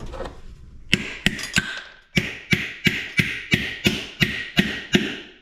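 A hammer striking metal scrap in a steady run of blows, about three a second, each leaving a short metallic ring. The first few blows come quicker and less evenly, about a second in.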